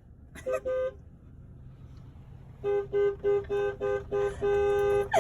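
Car horn honking: two short beeps, then a rapid run of about five short beeps and one longer held blast near the end, sounded to move animals crowding around the car.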